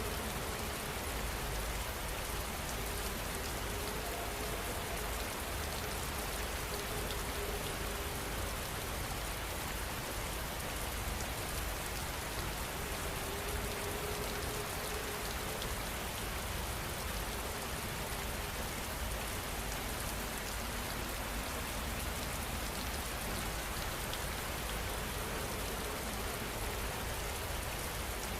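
Steady rain falling on a surface, with fine drops pattering.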